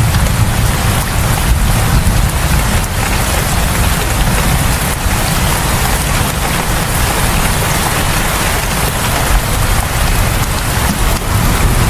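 Steady heavy rain falling on the ground and surfaces around a house, a dense even hiss with a deep low rumble underneath.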